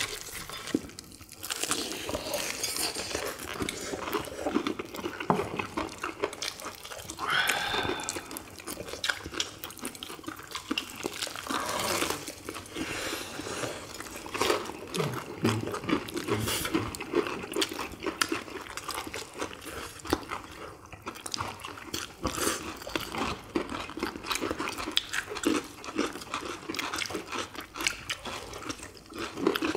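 People chewing crispy fried chicken drumsticks: irregular crunching bites and wet mouth sounds.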